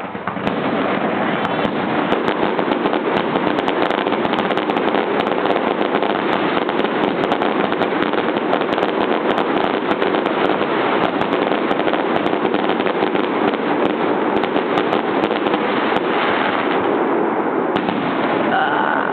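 Fireworks display going off continuously, a dense run of cracks and bangs over a steady rumble, with many shells bursting in quick succession.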